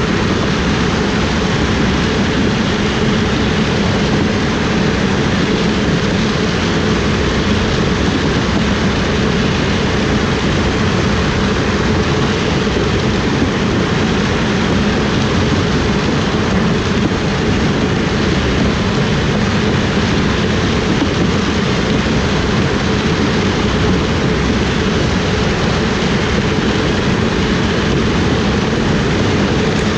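Combine harvester running steadily while harvesting corn: a loud, constant drone of engine and machinery that never changes.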